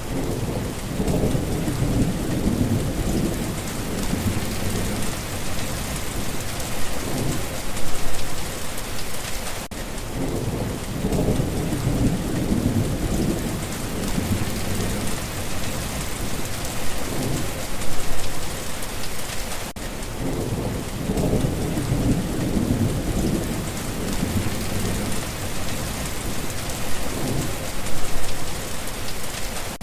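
Steady rain falling, with low thunder rumbling on and off beneath it, the rumbles coming back about every ten seconds.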